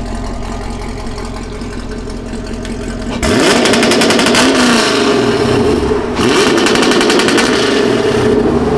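2019 Camaro SS's 6.2-litre LT1 V8 idling, then about three seconds in revved up onto the MSD two-step rev limiter, held there with a rapid, even popping and crackling from the exhaust. It lets off briefly about six seconds in and goes straight back onto the limiter.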